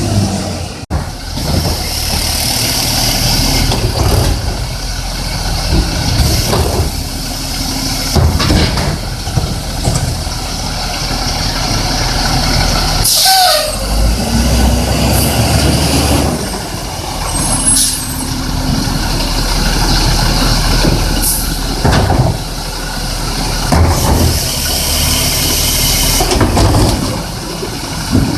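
Garbage truck's engine running with a low rumble, punctuated by several air-brake hisses; the loudest, about halfway through, comes with a brief brake squeal.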